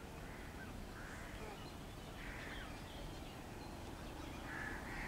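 Quiet outdoor ambience with a low steady background noise and a few faint bird calls: one about a second in, one around two and a half seconds, and another near the end.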